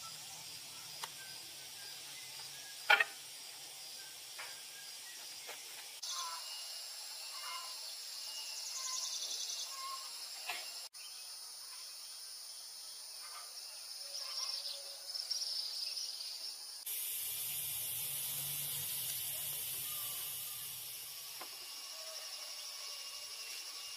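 Outdoor background hiss with high insect-like chirping. The background shifts abruptly several times, with a sharp click about three seconds in.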